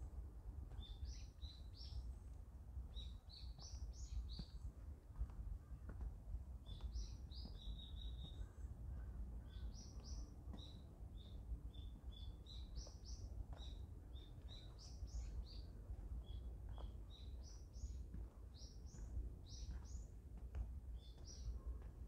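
Small songbirds chirping in quick runs of short, high notes, repeated over and over, above a faint, steady low rumble.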